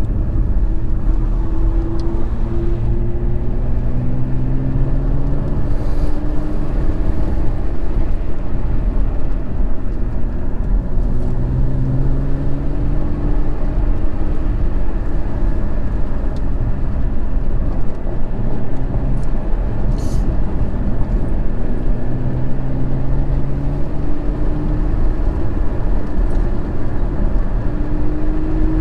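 BMW M2's turbocharged straight-six pulling through the gears, its pitch climbing slowly for several seconds and then dropping back, three or four times over, with steady road and tyre noise underneath.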